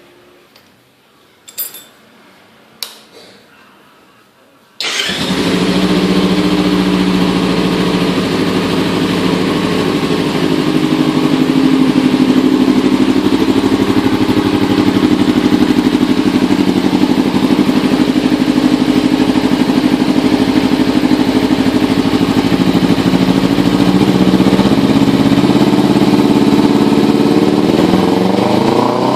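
Kawasaki Ninja 250 with a Yoshimura aftermarket exhaust: two sharp clicks, then the engine starts about five seconds in and idles steadily, the pitch beginning to rise near the end.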